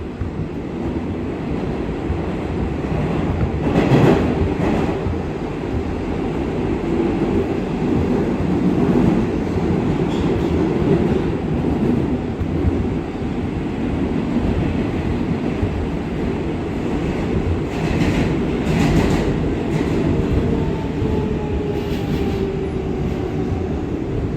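R188 subway train running on the 7 line, a steady rumble with sharp clatters of the wheels over rail joints, loudest about 4 s in and again around 18–19 s. A faint whine falls in pitch near the end.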